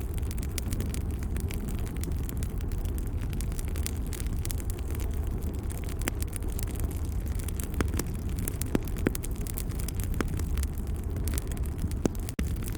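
Wood fire crackling: a steady low rumble of burning with frequent sharp pops and snaps, a few louder ones in the second half.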